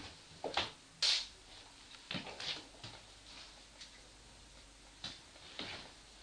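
A run of irregular short clicks and ticks in a small room, about a dozen at uneven spacing, the loudest a brief hiss-like tick about a second in.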